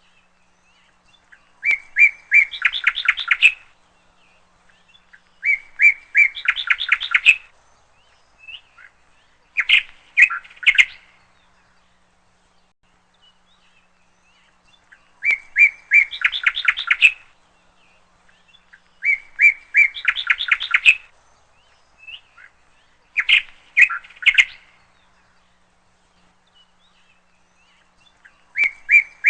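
A songbird singing short, loud phrases about every four seconds, seven in all. Each phrase is a couple of clear notes followed by a fast trill.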